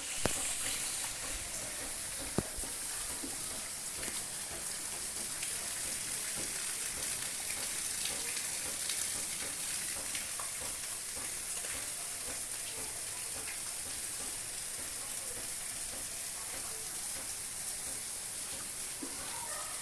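Heavy rain falling steadily: a dense, even hiss sprinkled with the ticks of individual drops, with one sharper tick a little over two seconds in.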